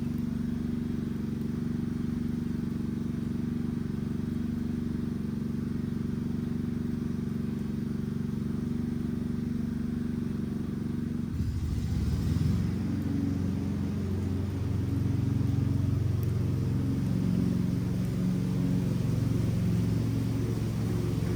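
An engine running steadily with a low hum. About eleven seconds in its pitch pattern shifts and it gets a little louder.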